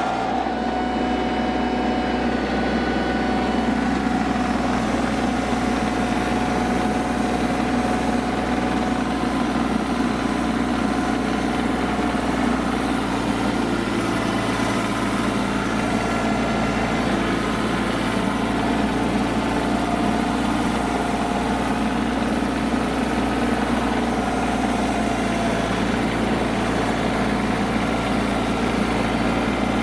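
Mahindra eMax 25 compact tractor's three-cylinder diesel engine running steadily while the tractor pulls a 6-foot scraper blade through dirt.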